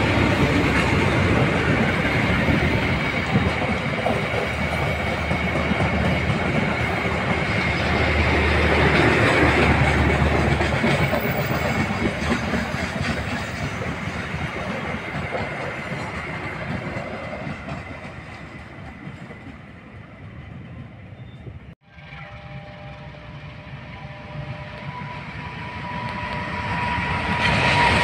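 Passenger train coaches rolling past with steady wheel clatter on the rails, fading away as the train recedes. After a sudden break about three-quarters through, a CC201 diesel-electric locomotive approaches, growing louder near the end.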